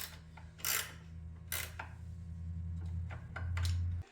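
Hand tools clicking and clinking against metal, about five separate sharp knocks, while the exhaust header is fastened to a Kohler 6.5 engine. A steady low hum runs underneath and cuts off suddenly just before the end.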